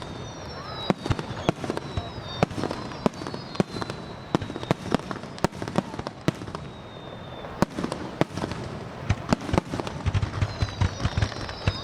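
Fireworks display: an irregular, rapid run of sharp bangs from bursting shells, with falling whistles at the start and again near the end.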